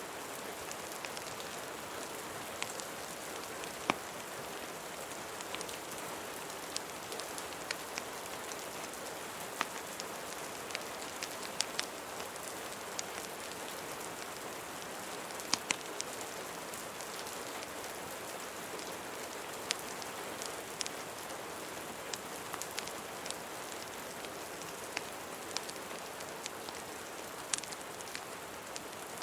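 Steady rain with scattered, irregular sharp clicks and pops, as of a crackling wood fire mixed in.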